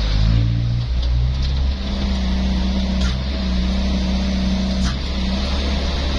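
Truck engine running steadily under way, its pitch rising briefly in the first second, with a couple of faint clicks partway through.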